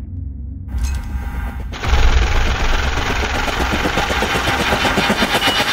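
A low rumble, then a fast, dense rattle that sets in about two seconds in and slowly grows louder, in the style of automatic gunfire in a trailer's sound mix.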